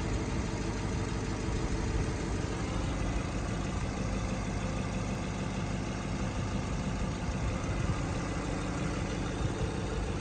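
GM L99 6.2-litre V8 engine idling steadily.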